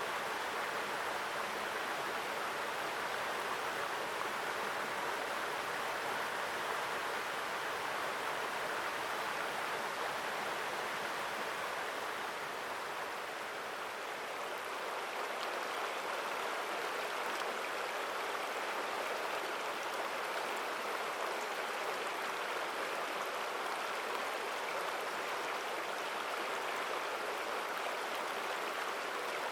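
Mountain stream flowing strongly over rocks: a steady, full rushing of water.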